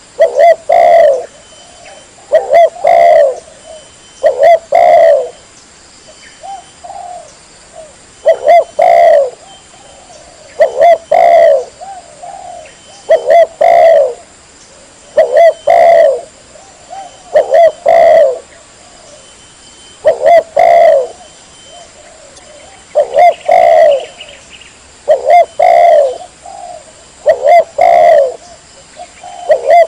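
Spotted dove (tekukur) cooing loudly, a phrase of two or three coos repeated about every two to two and a half seconds: a recorded lure call used to draw in wild doves.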